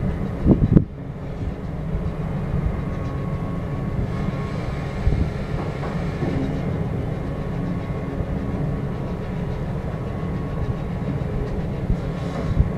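Steady low drone of a cargo ship's machinery, its engine and mooring winch running while the bow line is heaved in, with a few knocks about half a second in.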